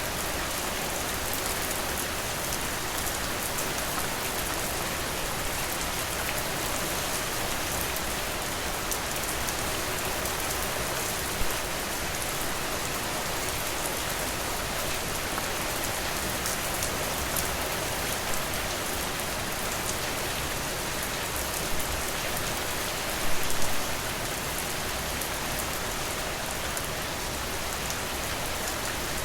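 Steady rainfall, an even hiss of rain with a few louder drips standing out, including a short cluster of them about three quarters of the way through.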